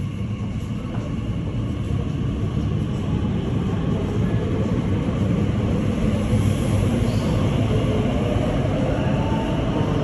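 Elizabeth line Class 345 train pulling away from the platform behind platform screen doors: a steady rumble of wheels and traction motors that builds over the first few seconds and then holds.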